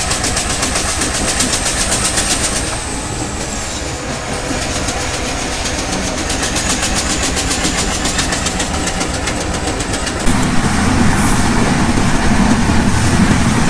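Banglabandha Express passenger train running along the track with a steady rumble and rail noise. About ten seconds in it turns louder, with a deeper rumble.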